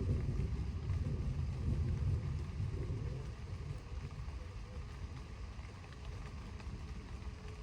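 Distant thunder rumbling low, strongest in the first few seconds and then fading off.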